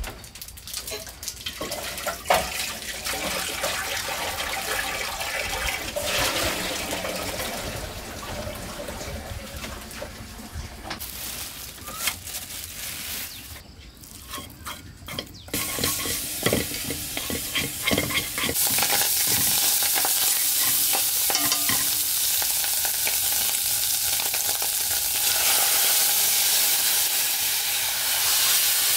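Pork sizzling in a metal pot over a wood fire as it is stirred with chopsticks, with scattered knocks and clatter of utensils. About two-thirds of the way in, the sizzle settles into a steady, louder hiss.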